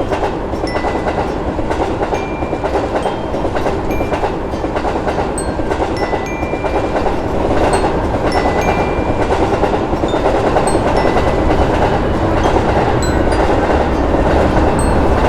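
A train running past, with a steady rumble and wheels clicking over the rail joints, growing slowly louder.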